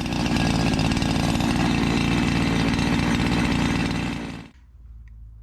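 Gas two-stroke chainsaw engine running hard, cutting off suddenly about four and a half seconds in, leaving a faint low hum.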